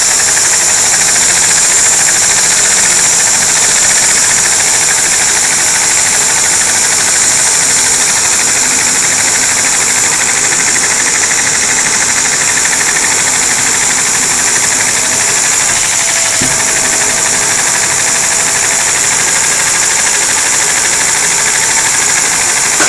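Vacuum cleaner motor running steadily at about 60% power with a high whine, its suction driving a spinning Lego butterfly vacuum engine.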